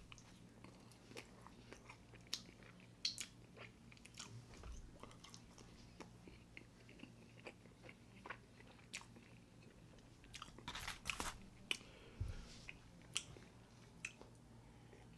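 Quiet close-up eating sounds: a man chewing a soft cinnamon roll, with scattered small mouth clicks and smacks. There is a faint steady low hum underneath.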